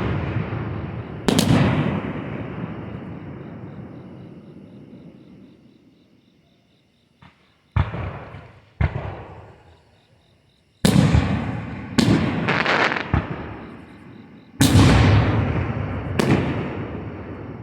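Aerial fireworks bursting: sharp bangs, each trailing off in a long rumbling echo that fades over several seconds. One comes about a second in, then a lull, then a run of bangs from about eight seconds on, some a second apart. Crickets chirp steadily underneath.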